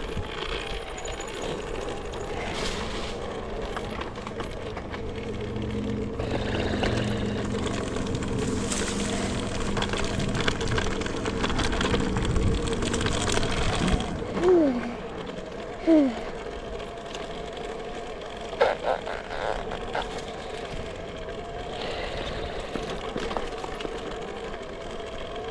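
Electric kids' dirt bike motor whining steadily, louder and fuller from about six to fourteen seconds in as it pulls under load. Two brief falling vocal sounds come near the middle.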